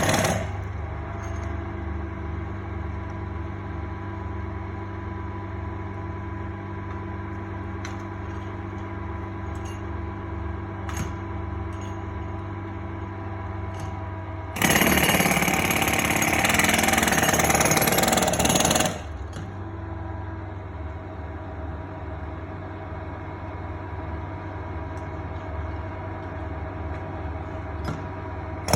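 Heavy machinery running steadily with a low, rapid pulsing hum. About fifteen seconds in, a much louder, harsher mechanical noise joins for about four seconds, then stops suddenly.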